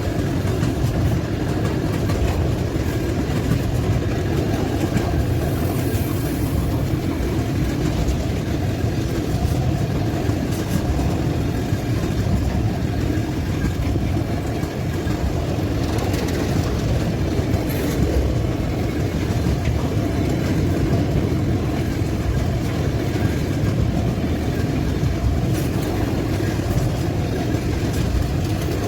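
Freight train of tank cars rolling past, a steady low rumble of steel wheels on the rails.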